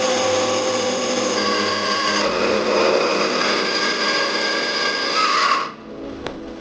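Electric power tool running steadily at speed, then switched off and spinning down about a second before the end, followed by a couple of light clicks.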